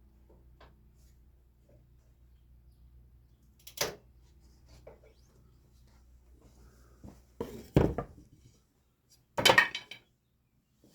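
A few sharp knocks and clatters: one about four seconds in, a cluster near eight seconds, and the loudest about nine and a half seconds in, over a faint low hum.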